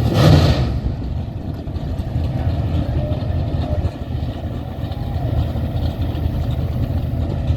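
Car engine rumbling steadily at a low idle, after a brief louder rush in the first second.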